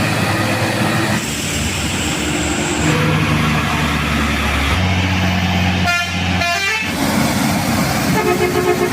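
Heavy diesel trucks running in low gear as they climb a steep grade, their engines drawing a deep steady note. A truck horn toots twice in quick succession about six seconds in.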